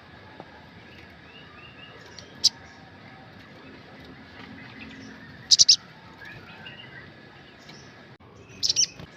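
Olive-backed sunbird calling: sharp, high-pitched chirps, one alone, then a quick run of three and another cluster near the end, with faint twittering in between.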